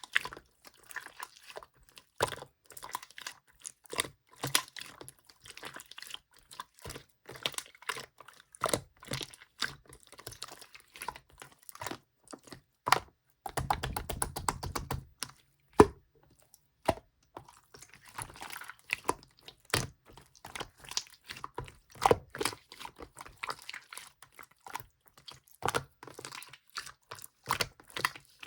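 Translucent sky-blue slime being squeezed and poked by hand, a steady run of sticky clicks and pops, with a denser stretch of rapid clicks in the middle.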